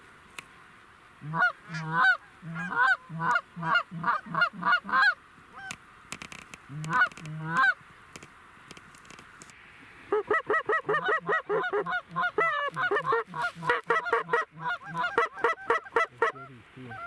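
Goose calls honking in quick runs, several honks a second. They break off for a few seconds around the middle, then several calls go together near the end, calling to geese coming in close.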